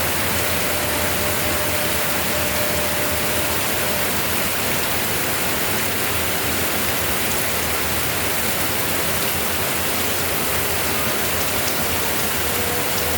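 Heavy rain falling steadily, an even hiss of rain on surfaces, with a faint steady tone in the background.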